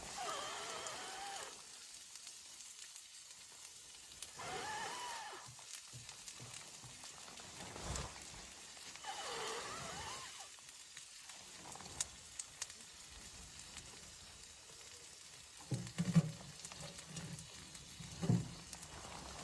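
Howling storm wind: a steady hiss with whistling tones that rise and fall in gusts every few seconds, and a few dull knocks near the end.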